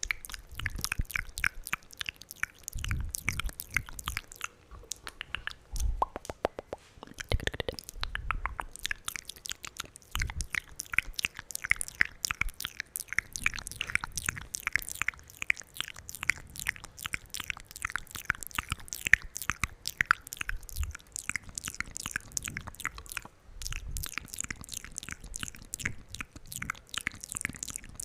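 Wet ASMR mouth sounds made right at the microphone: a fast, continuous run of moist clicks and smacks, several a second, broken by a few short pauses, with occasional low thumps.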